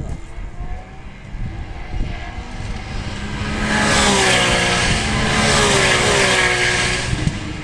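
Race cars passing at speed. The engine sound swells about halfway through and the engine note drops in pitch as they go by, then it starts to fade near the end.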